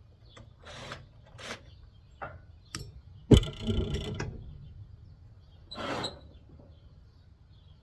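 Clicks, knocks and metal rattling from a window air conditioner being taken apart with hand tools. A sharp metal bang about three seconds in is followed by about a second of rattling, and there is another short scrape near six seconds.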